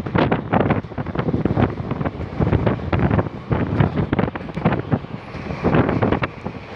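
Gusty wind buffeting the microphone: an uneven, rumbling roar with rapid irregular surges.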